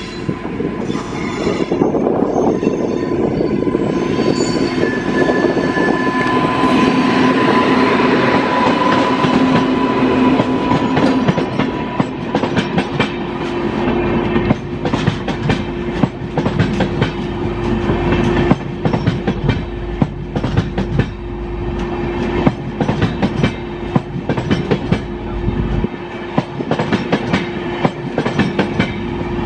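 A train passing at speed, its wheels clattering over rail joints, the clatter densest in the second half. A long steady tone sounds through the first third.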